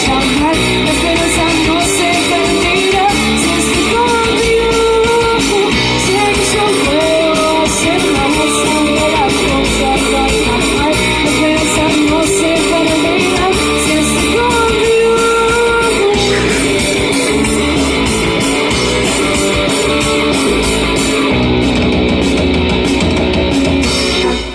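Live rock band playing an instrumental passage: an electric guitar lead line with bending notes over bass and drums with steady cymbal strikes. The song stops abruptly near the end.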